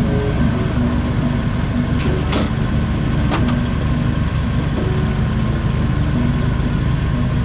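Jeep Wrangler YJ engine running steadily during an off-road drive, with two sharp knocks, about two and a half and three and a half seconds in.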